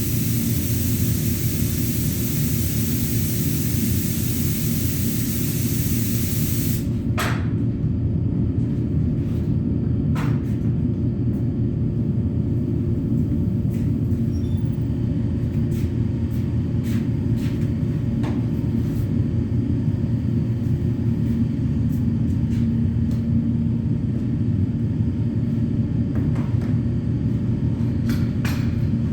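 Compressed-air spray gun hissing as primer is sprayed, cutting off suddenly about seven seconds in. A steady low machine hum runs underneath throughout, with a few faint clicks after the spraying stops.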